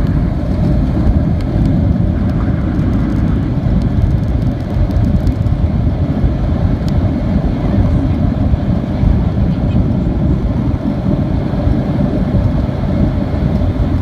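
Steady loud rumble inside the cabin of a Boeing 737-700: its CFM56 jet engines and the rushing air, deep and even throughout, with a few faint small rattles.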